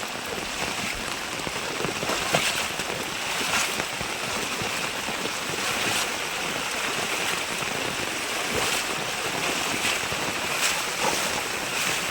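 Steady rain: an even hiss of falling water with a few scattered sharper drop ticks.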